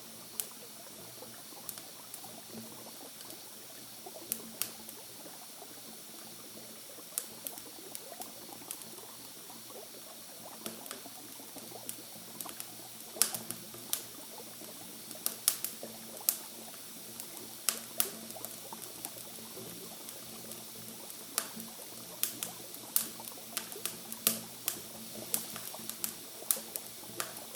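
Campfire crackling with irregular sharp pops, busier in the second half, over a steady trickling of water.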